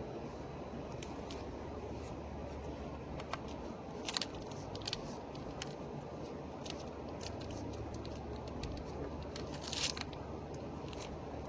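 Steel mortar jointer scraping and pressing along wet mortar joints between bricks: short, irregular scratchy scrapes and crunches, with the loudest strokes about four seconds in and near the end, over a steady low background noise.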